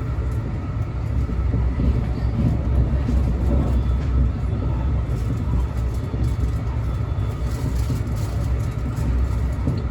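Steady low rumble of a Brightline passenger train in motion.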